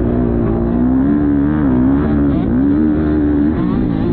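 Motocross bike engine running under race throttle, its pitch rising and falling repeatedly as the throttle is worked.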